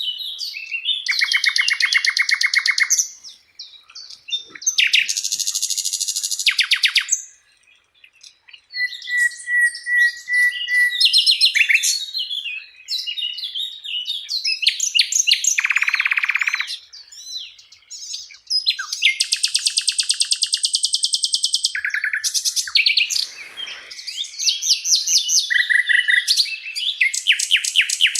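Sikatan londo (a flycatcher) singing a long, varied song of fast rattling trills, high whistled notes and rapid chips, with short pauses between phrases. This is a masteran recording, a song played to caged songbirds for them to learn.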